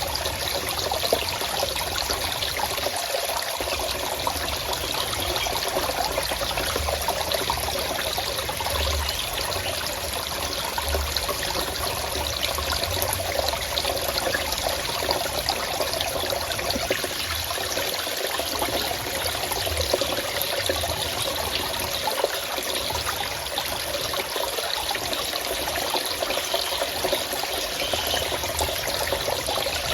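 A forest stream flowing and trickling steadily.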